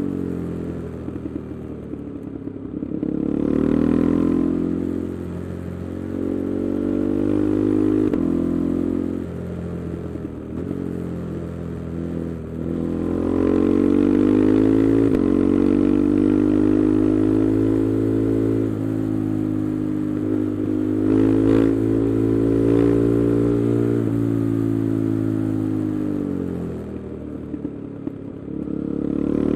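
KTM 390 Adventure's single-cylinder engine breathing through an aftermarket Arrow exhaust with the resonator removed, riding through the gears. The revs climb and drop back at each shift, hold steady for a long cruising stretch in the middle, fall off near the end as the throttle closes, then pick up again.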